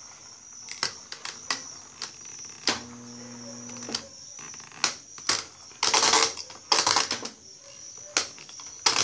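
Clicks of the program selector knob on an Electrolux Turbo Limpeza 6 kg washing machine being turned step by step through its cycle positions. A brief low hum comes about three seconds in, and louder rustling handling noise follows about six to seven seconds in. A steady high chirp, like crickets, runs underneath.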